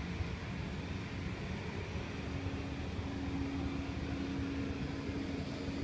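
Steady low rumble of an engine running, with a steady hum coming in about two seconds in.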